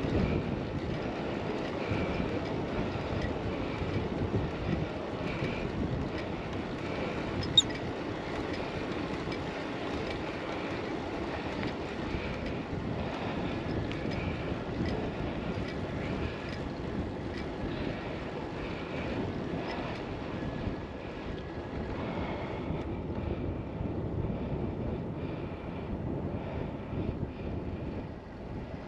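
Wind rushing over an action camera's microphone with tyre and road noise from a bicycle ride, and a single sharp click about seven and a half seconds in.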